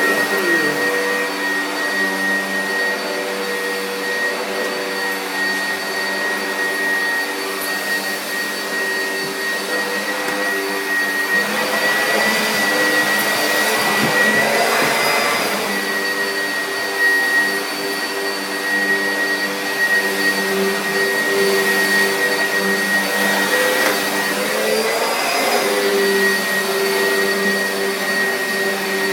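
Vacuum cleaner running steadily with a high motor whine, its pitch shifting slightly now and then.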